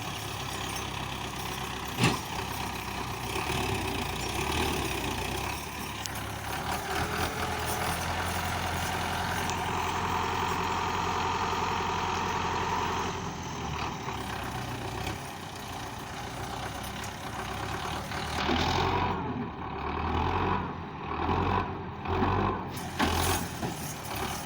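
Tractor diesel engine running steadily while hauling a heavily loaded trolley, with a sharp knock about two seconds in. Over the last few seconds the sound turns uneven, surging louder and softer.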